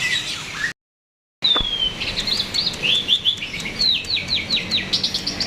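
Starling (jalak) singing: the sound drops out completely for under a second near the start, then comes a falling whistle followed by a quick run of short sweeping chirps.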